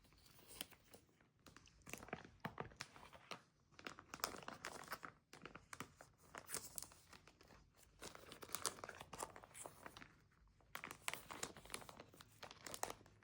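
Crinkling and rustling of album packaging being handled, in irregular short bursts with brief pauses.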